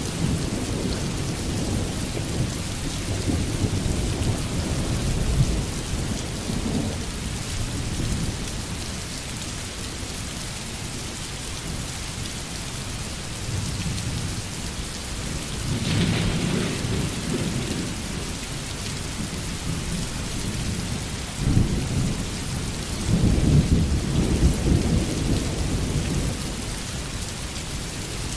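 Steady heavy rain with rolling thunder: low rumbles come and go through the first several seconds, a sharper crack of thunder sounds about halfway, and a longer rumble builds in the last third.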